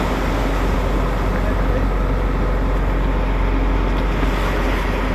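Fishing boat's engine running steadily, with a dense wash of wind and water noise over it.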